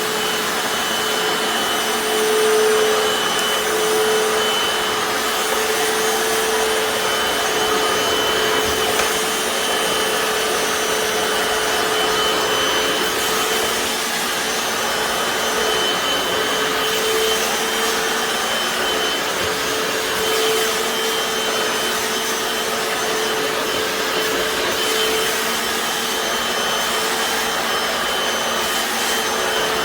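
Hoover FloorMate Deluxe wet/dry hard-floor cleaner running in wash mode: a steady motor whine over a constant suction rush, with the brushes scrubbing as it is pushed across tile.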